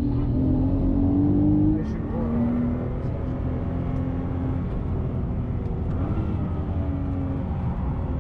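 Nissan R35 GT-R's twin-turbo V6 under load on track, its engine note climbing, dropping back about two seconds in, then pulling and rising again.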